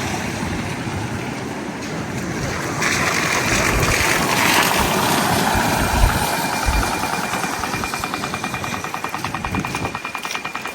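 City street noise with traffic passing; a louder hiss swells about three seconds in. In the second half a fast, even electronic-sounding ticking starts and keeps going.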